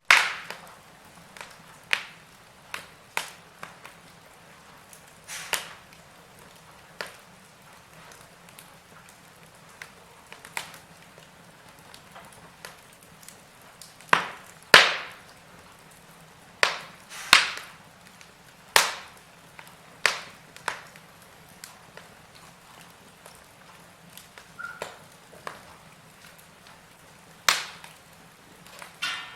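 Wood fire burning in a fireplace, crackling with sharp, irregularly spaced pops over a faint steady background; the loudest pops come about halfway through and near the end.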